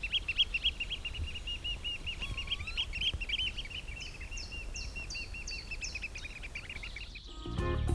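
Birds calling: a fast, steady run of repeated high calls, about six a second, with a second series of short falling notes for a couple of seconds midway. Music comes in just before the end.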